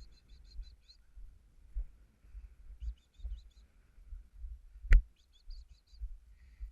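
A small bird chirping in quick runs of five or six high notes, three runs in all, over a low rumble, with one sharp click about five seconds in.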